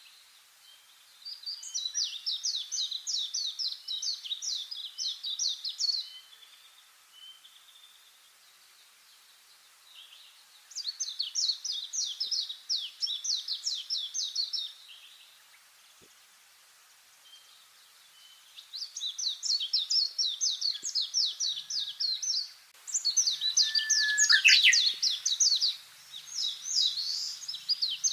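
A songbird singing long trills of rapidly repeated high notes, about four notes a second, in four phrases of several seconds each with short pauses between. Near the end one brief call slides sharply downward.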